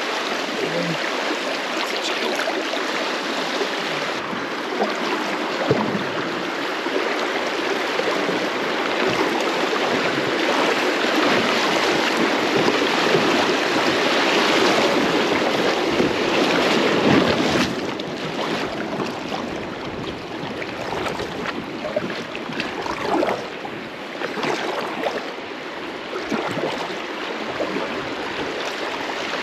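Flowing river water rushing steadily, louder through the middle and easing off a little after about seventeen seconds.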